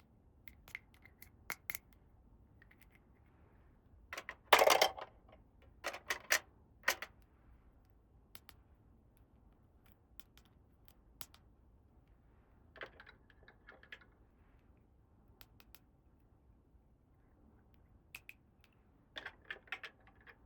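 Small plastic toy pieces being handled and set down: scattered light clicks and taps, with a louder clatter of several quick knocks about four and a half seconds in and shorter clusters of clicks later.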